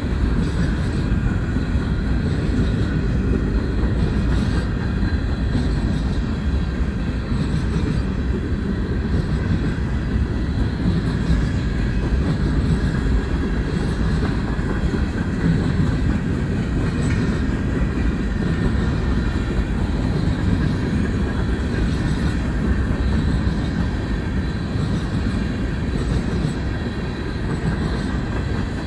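Freight cars of a long mixed manifest train rolling past close by, a steady loud rumble of steel wheels on rail with some clatter. Faint high wheel squeal rides above it.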